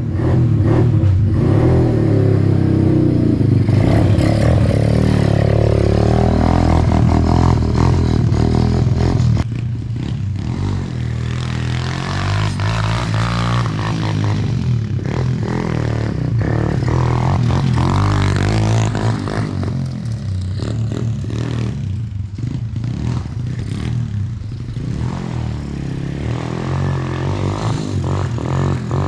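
TaoTao DB17 125cc single-cylinder four-stroke dirt bike engine being ridden, its pitch rising and falling as it revs up and eases off through the gears. The sound changes abruptly about nine seconds in.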